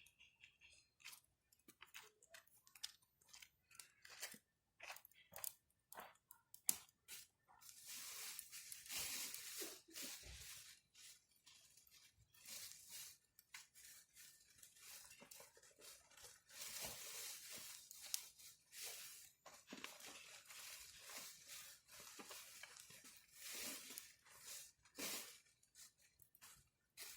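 Wood campfire crackling: scattered sharp pops and snaps, turning into denser bursts of crackle from about eight seconds in.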